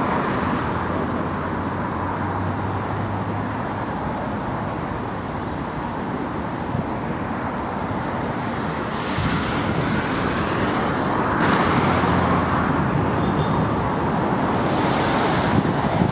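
Jet airliner engine noise blended with gusty wind buffeting the microphone: a steady rushing sound with a ragged, fluttering low end.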